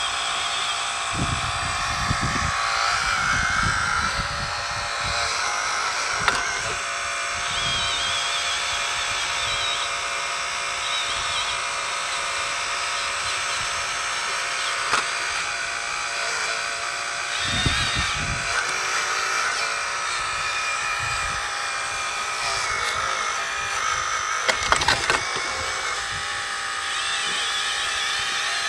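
Electric hydraulic pump of a 1/12 scale RC4WD Earth Digger 4200XL excavator whining steadily, its pitch shifting as the load changes, with a few sharp clanks of the metal tracks and body on rock.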